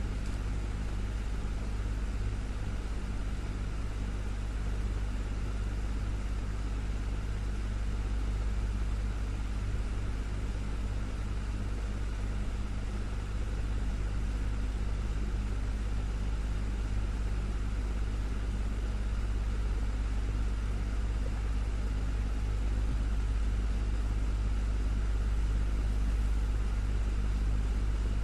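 Desktop fan running steadily: a deep, even motor hum with a few faint steady tones above it, under a constant rush of air from the blades.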